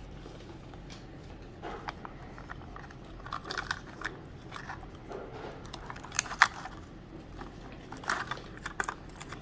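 Small plastic miniature toys and their wrappers being handled: scattered clicks and short crinkles, one sharper click about six seconds in.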